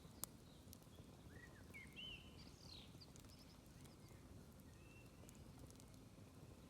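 Quiet, smoky campfire burning low, with one sharp crackle just after the start and a few faint pops over a low rumble. A few short high chirps come around the middle.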